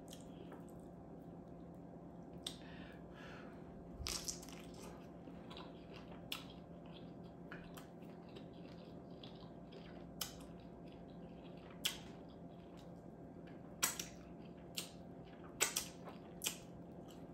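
Close-miked eating: wet chewing, with about a dozen short, sharp mouth smacks and clicks spread irregularly, over a faint steady hum.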